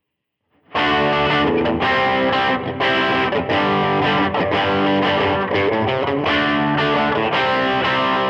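Les Paul electric guitar played through a real Nobels overdrive pedal into a virtual Vox AC30 amp with reverb added, giving a distorted tone. The playing starts after a brief silence less than a second in and runs on as continuous overdriven chords and picked notes.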